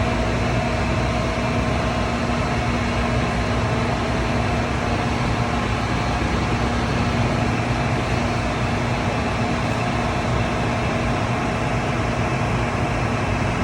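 Asquith RMD 16/60 CNC horizontal boring mill running under power: a steady mechanical hum with a couple of steady tones and no change in pace.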